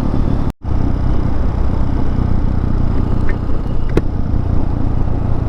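Hawk 250 dual-sport motorcycle's single-cylinder engine running steadily under wind noise while riding. The sound cuts out for a moment about half a second in.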